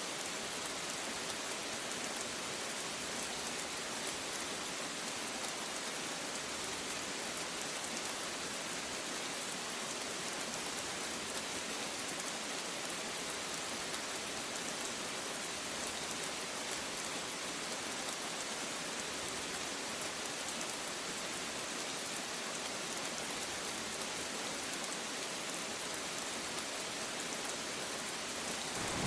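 Steady rain falling, an even hiss of many drops that does not change in level.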